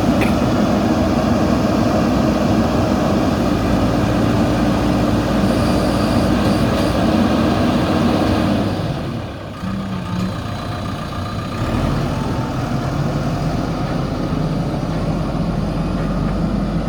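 Backhoe loader's diesel engine running steadily. It eases off about two-thirds of the way in, then picks up again a few seconds later.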